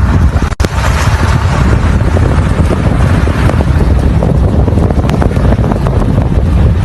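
Heavy wind buffeting the microphone: a loud, steady, low rumble with a split-second gap about half a second in.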